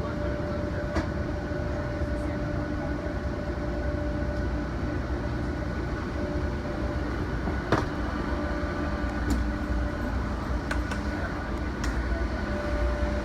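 Steady rumble and hum inside an airliner cabin before takeoff, with a few light clicks and knocks, the sharpest about two-thirds of the way through.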